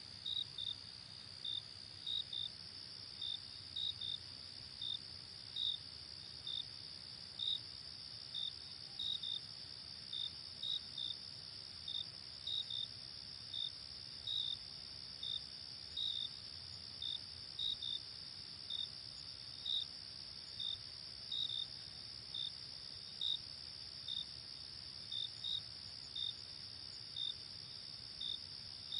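Night crickets: a steady high continuous trill with separate short chirps repeating about twice a second over it.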